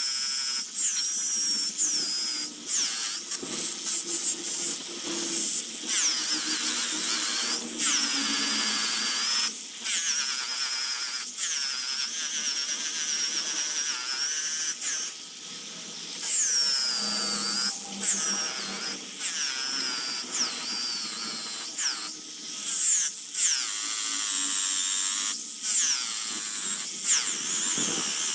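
Small high-speed rotary power tool carving wood. Its high whine sags in pitch each time it bites into the wood and recovers between passes, with brief pauses every second or two.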